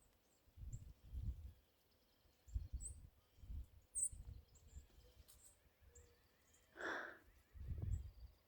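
Gusts of wind buffeting the microphone on and off, with a few faint, short high bird chirps and one brief louder call about seven seconds in.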